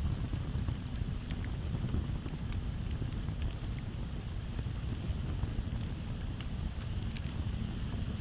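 Campfire burning: scattered sharp crackles and pops over a low, steady rumble of flames and breeze, with a faint steady chirring of crickets behind.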